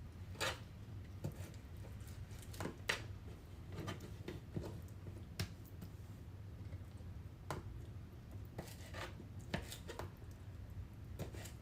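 Irregular light clicks and taps of hand food preparation, shrimp being cut up, over a faint steady hum.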